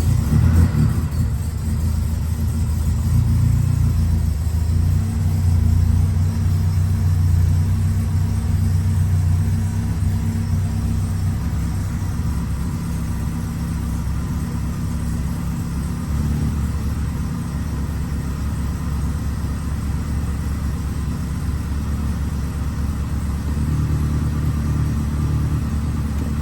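Alfa Romeo car engine idling just after a cold start, a steady low rumble. It runs a little louder for about the first ten seconds, then settles to a slightly quieter, even idle.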